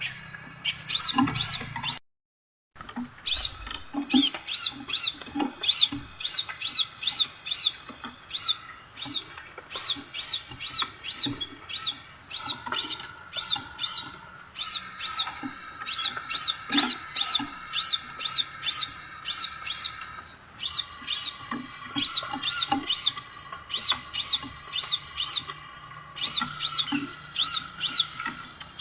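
Scarlet minivet calls: a rapid series of high, thin whistled notes, each rising and falling, about three to four a second, over a steady lower hum. The sound cuts out completely for under a second about two seconds in.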